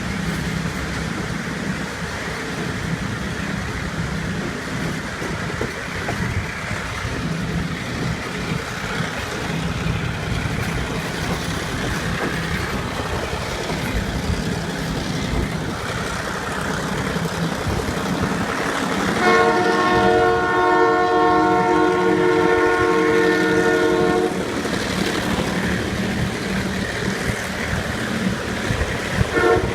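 Train running with the steady drone of a 1961 EMD two-stroke diesel locomotive. About nineteen seconds in, the locomotive's horn sounds a chord of several notes for about five seconds, then gives a brief toot near the end.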